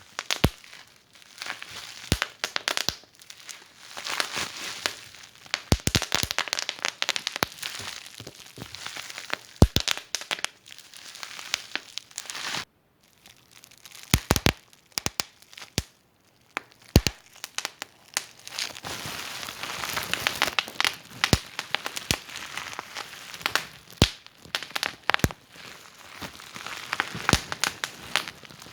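Wood fire crackling in a fireplace: irregular sharp pops and snaps over a soft hiss, with a brief silent gap about halfway through.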